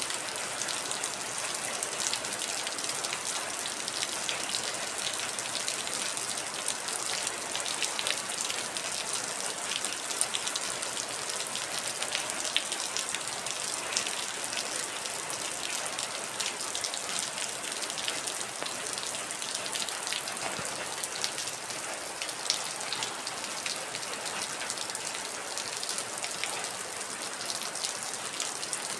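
Heavy rain falling steadily, a dense hiss scattered with sharp ticks of individual drops striking a surface.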